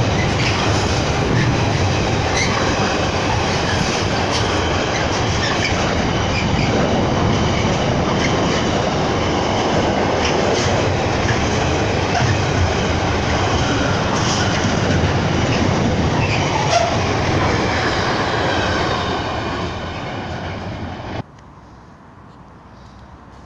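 Container wagons of a Freightliner freight train rolling past close by: a steady rumble and clatter of wheels on the rails. It eases slightly, then cuts off abruptly near the end, leaving only quiet background.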